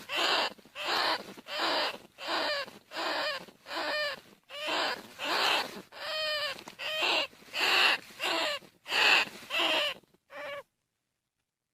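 Bandicoot rat calls played as a hunting lure: a fast series of squealing calls, each bending in pitch, coming a little under two a second. The calls stop abruptly near the end.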